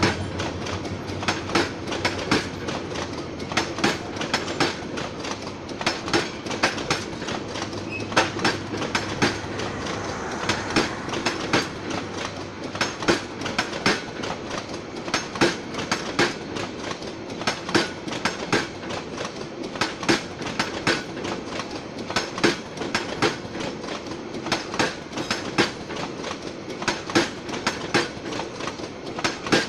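Bangladesh Railway intercity passenger coaches rolling past on the track, their wheels clicking over the rail joints in a steady clickety-clack of regular sharp clicks over a running rumble.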